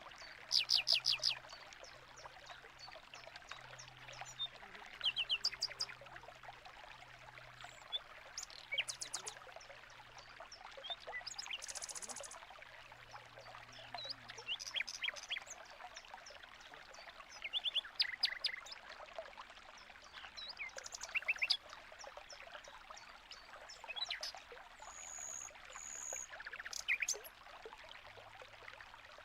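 Small aviary finches chirping in short, rapid clusters every few seconds over the steady trickle of running water.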